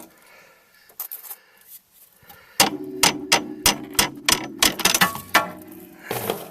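Rapid metal-on-metal strikes, about ten in three seconds, each with a ringing note, as the shock strut is knocked loose from its mount; a short scraping rustle follows near the end.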